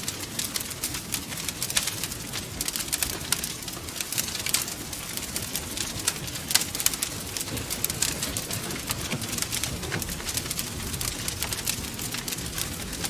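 Wood fire crackling, with frequent sharp pops and snaps over a steady low rumble of the flames. The loudest snap comes about halfway through.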